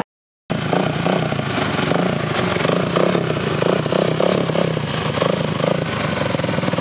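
Dirt bike engine running, its pitch rising and falling as the throttle is worked on and off. The sound starts after a brief gap of silence at the start.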